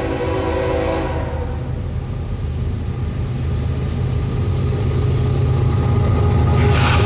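Diesel locomotive air horn sounding a chord that cuts off about a second in, followed by the lead locomotives' diesel engines rumbling and growing louder as they approach. A brief loud hiss sounds near the end.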